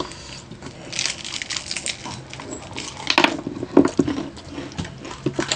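Crunching and chewing of crispy deep-fried pork skin, irregular crackling bites mixed with sharp clicks, the loudest crunches about three to four seconds in.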